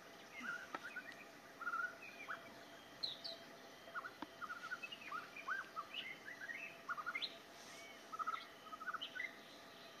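Birds chirping: many short, quick calls, some sweeping up and some down in pitch, scattered throughout over a faint outdoor hiss.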